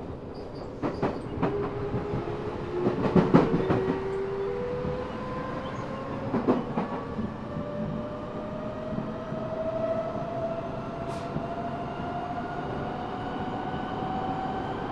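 Eidan 6000-series subway car's Mitsubishi three-level VVVF inverter, a unit taken from the 7000 series, whining and rising steadily in pitch as the train accelerates. This inverter is high-pitched and sounds unlike the other cars of the class. In the first seconds the wheels clatter over rail joints, heard from the car floor.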